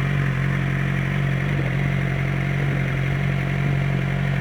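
Suzuki GSX-R 600 inline-four engine idling steadily, with no revving.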